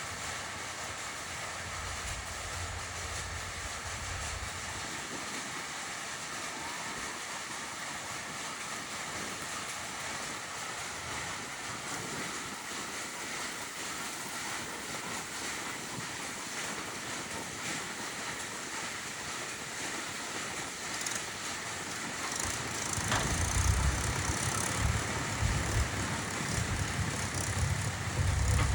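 Diesel engine of heavy machinery running steadily, growing louder with a deeper rumble about three-quarters of the way through, where a single sharp knock is heard.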